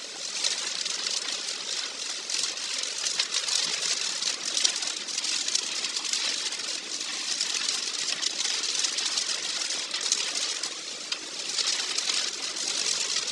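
Typhoon wind and rain: a steady hiss that surges and eases in gusts, with a brief lull near the end.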